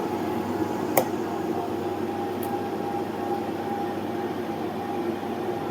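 Cooling fans running with a steady whirring hum while an inverter drives a heavy load, with one sharp click about a second in.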